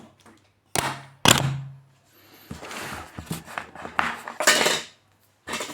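Two hard knocks of objects set down or struck on a tabletop, the second ringing briefly. Then a few seconds of scraping and rustling as they are handled, with small clicks.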